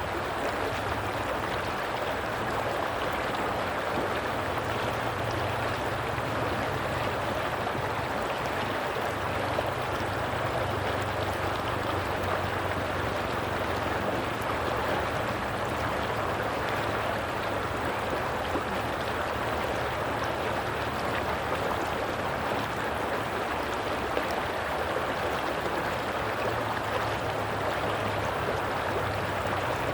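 Flowing stream water, a steady rushing and babbling that goes on without a break.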